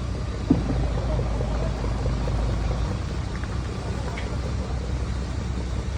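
Toyota Yaris running as a low, steady rumble as it is driven up to the boat, with a single knock about half a second in.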